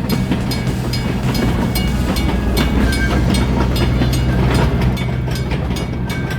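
A train running on rails: a steady low rumble with many sharp clicks and knocks from the wheels and cars. The sound cuts off suddenly at the end.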